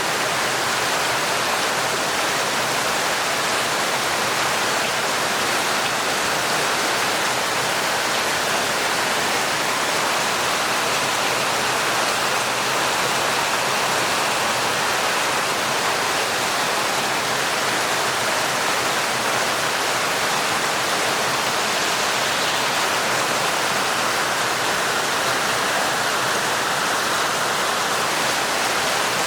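Heavy, torrential rain falling steadily as an even, unbroken hiss, with no single drops or thunder standing out.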